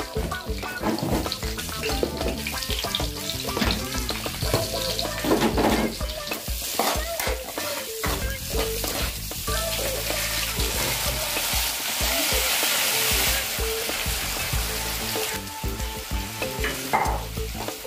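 Garlic, ginger and onions sizzling in hot oil in a wok while a metal ladle stirs and scrapes against the pan. The sizzling grows louder and more even for a second or so a little past the middle.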